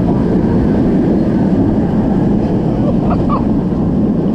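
Loud, steady rush of wind over the microphone with the rumble of the Alpengeist, a B&M inverted steel roller coaster, running at speed in heavy rain.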